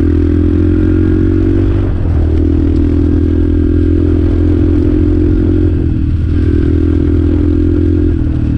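Motorcycle engine running steadily under way, heard through a helmet-mounted microphone. Its note dips and shifts briefly about two, six and eight seconds in, then holds steady again.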